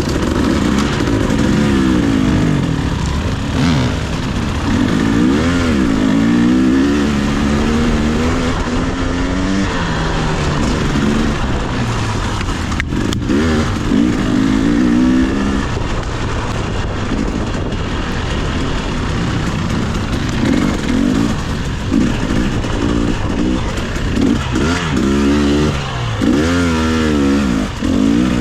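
Dirt bike engine under load, its revs rising and falling over and over as the throttle is opened and closed while riding over rough, rocky trail.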